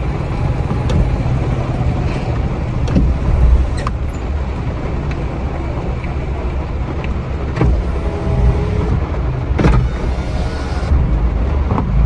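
Steady low rumble of a car engine and traffic heard from inside a car cabin, with a few sharp clicks and knocks, the loudest about ten seconds in.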